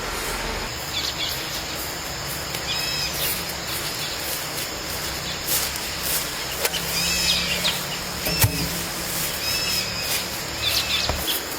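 Short, high chirping bird calls repeated every couple of seconds over steady background noise, with a few sharp clicks.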